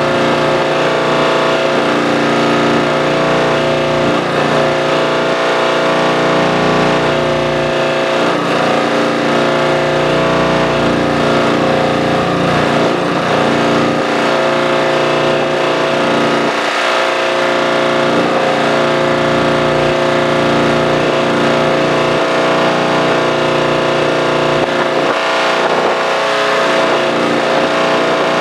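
Tractor engine running at a steady speed, a constant droning hum with no change in pitch.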